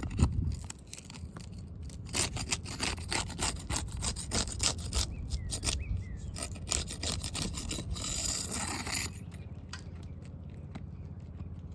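Asphalt roof shingles being scraped and pried loose, a quick run of scraping, crackling strokes followed by a longer rasp about eight seconds in.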